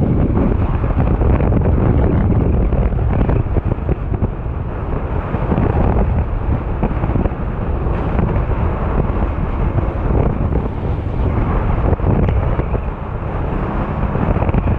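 Strong wind buffeting the microphone, with water rushing past the hulls of a Hobie 16 catamaran sailing fast. A loud, steady rush that swells and dips a little.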